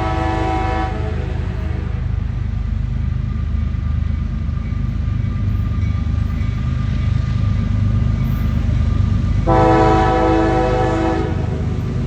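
CSX diesel locomotive rumbling along at low speed while sounding its air horn: one blast ends about a second in, and another sounds for about two seconds near the end.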